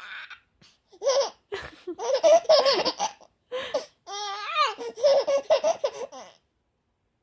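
Baby laughing in a string of short bursts, with a wavering squeal in the middle.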